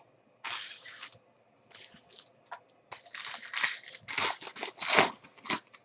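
Plastic wrapping on a box of trading cards being torn and crinkled as the box is opened, in irregular bursts that get denser and louder in the second half.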